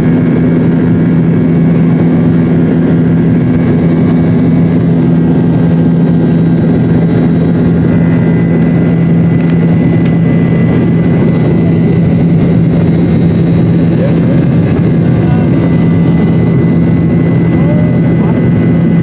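Cabin noise of a Boeing 737-800 in flight: its CFM56 jet engines give a steady, loud drone with a low hum under a constant rush of air. A faint high whine joins about halfway through.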